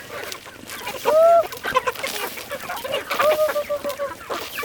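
Chickens clucking, with two drawn-out hen calls: a short, loud one about a second in and a longer one a little after three seconds.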